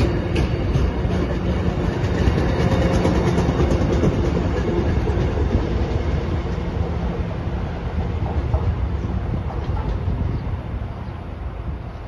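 Passenger train running past on the rails, a steady heavy rumble with wheels clicking over rail joints and a low steady hum, fading away over the last few seconds as it moves off.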